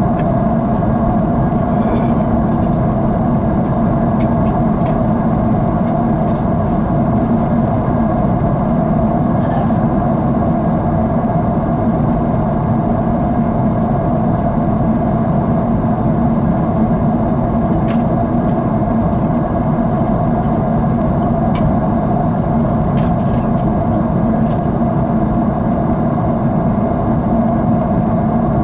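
Airliner cabin noise in flight: the steady drone of the jet engines and rushing air heard from a window seat, unchanging throughout, with a few faint ticks in the second half.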